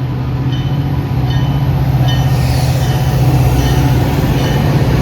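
Commuter train arriving, its diesel locomotive's engine running with a loud, steady low hum that grows louder, and a faint ringing repeated about twice a second.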